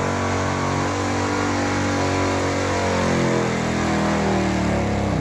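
Tractor-pull tractor's engine running hard at high revs, its pitch sagging slightly toward the end.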